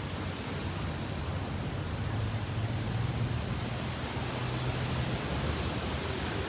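Strong wind rushing steadily, with a low steady hum underneath.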